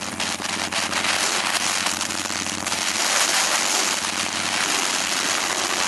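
Motorcycle engine running on the move, heard under a loud rush of wind with steady crackling buffeting on the microphone.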